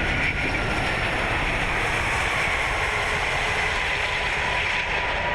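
Airbus A380 cockpit noise in the moments after touchdown: a steady rush of air with a heavy low rumble from the landing roll.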